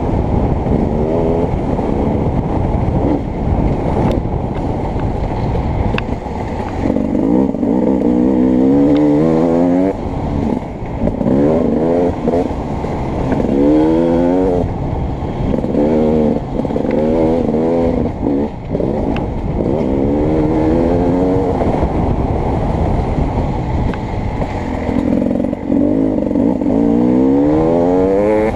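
Beta 300RX two-stroke dirt bike engine being ridden hard, revving up again and again with the pitch climbing each time. Between climbs it drops back briefly at shifts or off the throttle.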